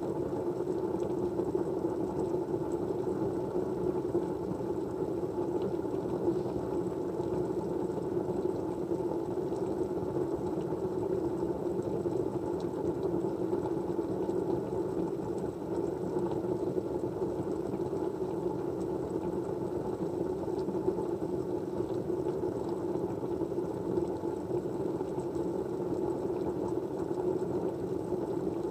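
Steady, even white-noise study background: a low, muffled hiss with no rhythm or change.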